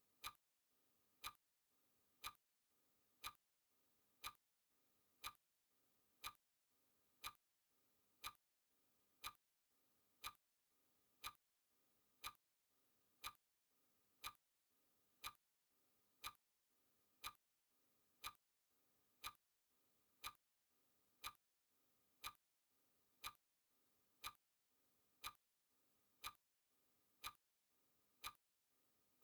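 Clock-style ticking sound effect of a countdown timer, one sharp tick every second, evenly spaced.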